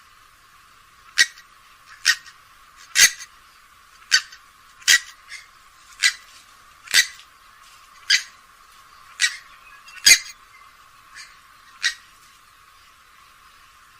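Grey-headed swamphen giving a series of short, sharp calls, about one a second, the last few fainter.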